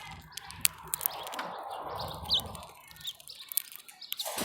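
Small birds at a feeder giving a few short, high chirps, with several sharp clicks in between.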